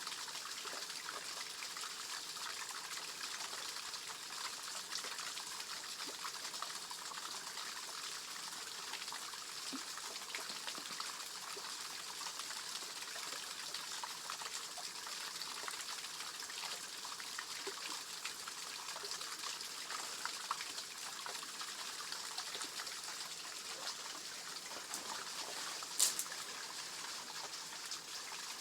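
Shallow stream water trickling and splashing steadily over a little waterfall, with one sharp click near the end.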